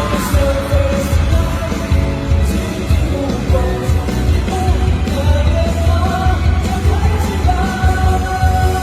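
Live pop concert performance: a male group singing a melody over loud backing music with a heavy bass.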